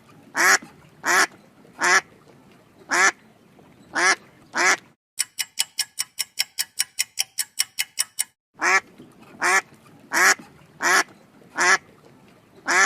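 Short animal calls repeated roughly once a second, then a clock ticking quickly for about three seconds, then the same calls again.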